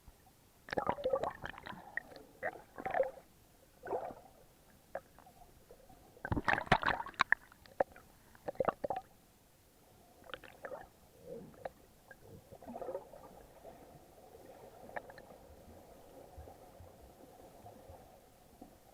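Muffled water sounds through a sealed action-camera housing while snorkeling: irregular splashes and gurgles, loudest about six to seven seconds in, settling into a faint steady hum in the second half.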